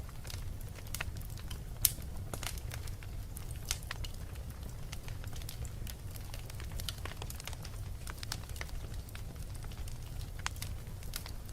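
Wood fire burning in a fireplace: a steady low rumble with irregular crackles and snaps, the loudest pop a little under two seconds in.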